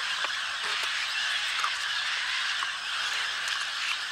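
Rainforest ambience: a steady, dense high hiss of forest background chorus, with many small scattered clicks and taps.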